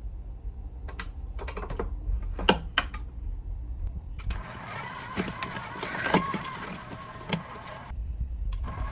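Stand mixer running for about three and a half seconds, mixing ice cream and crushed cookie into a homemade Blizzard, with a second short run near the end. A few sharp clicks and knocks come before it.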